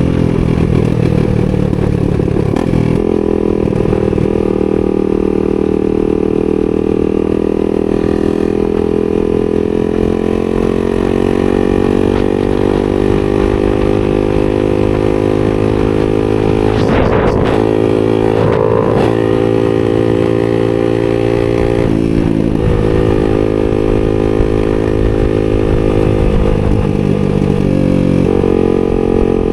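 A 250cc single-cylinder supermoto engine running at a fairly steady pitch, its note shifting briefly a few times.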